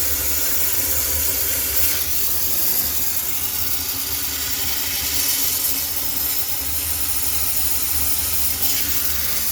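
High-pressure steam cleaner jetting steam, a steady hiss that swells and eases, over a constant low hum.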